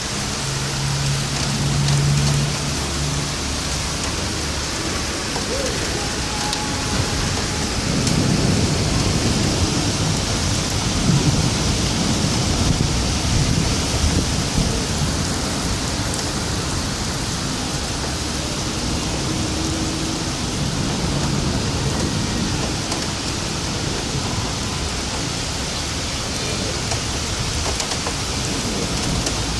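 Heavy rain falling steadily during a severe thunderstorm, with low thunder rumbling, strongest in the middle stretch.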